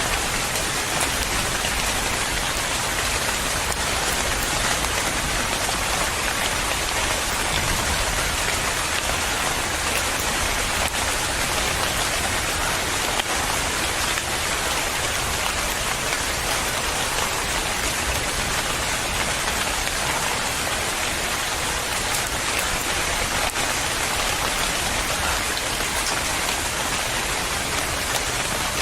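Steady heavy rain falling on a surface, a continuous even hiss with fine drop patter.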